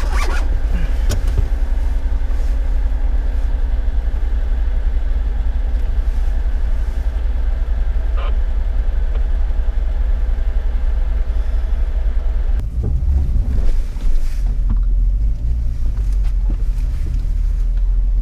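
Jeep's engine running in a steady, deep rumble as it crawls along an off-road trail. About 13 seconds in there are a few knocks, and after them the rumble grows heavier and lower.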